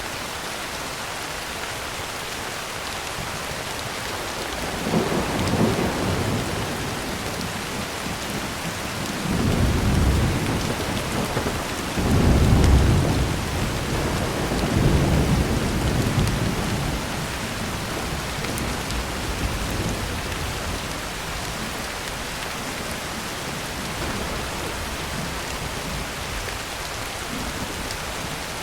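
Heavy rain drumming steadily on a tin roof, with a long roll of thunder that swells about five seconds in, is loudest around twelve seconds in, and dies back into the rain.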